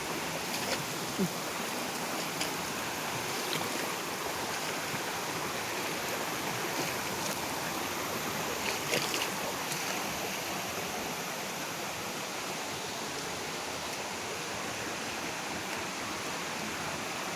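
Steady rushing of a shallow river or stream flowing over rocks, with a few faint clicks and knocks.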